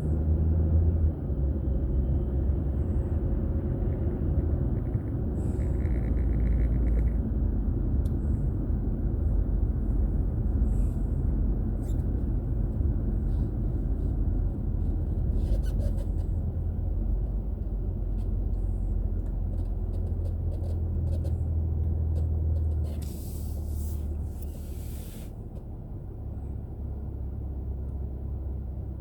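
Steady low rumble of a car's road and engine noise while driving, as picked up by an in-car dashcam. About two-thirds of the way through there are a couple of seconds of hiss, and the rumble then eases a little.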